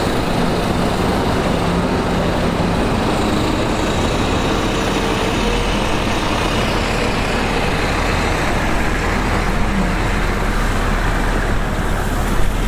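Heavy diesel earthmoving machinery running steadily, with a deep engine note that grows stronger about five seconds in. A short, sharp louder sound comes near the end.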